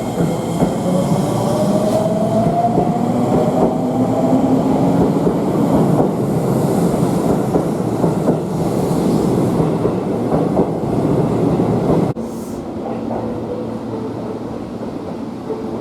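Seibu 6000 series electric train running on the rails, its motor whine rising in pitch over the first few seconds as it gathers speed, over a dense rumble and wheel clatter. About twelve seconds in, the sound cuts abruptly to a quieter rumble.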